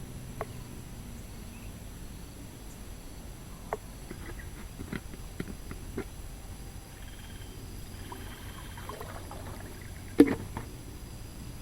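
Scattered light clicks and knocks over a low steady background hum, with one much louder knock about ten seconds in.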